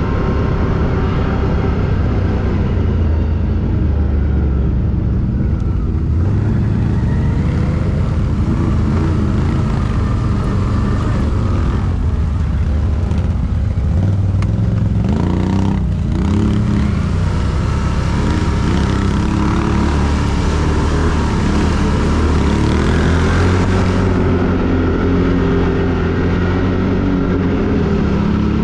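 ATV engine running while riding off-road, its pitch rising and falling with the throttle.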